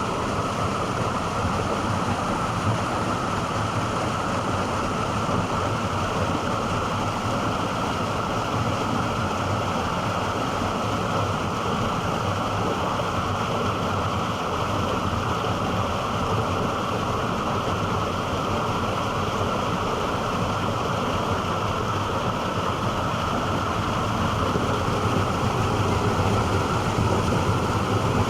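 Steady rush of a mountain stream's flowing water, growing a little louder near the end.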